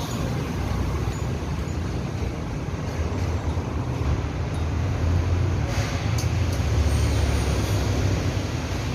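Steady low rumble of a running road vehicle or passing traffic, growing louder about five seconds in.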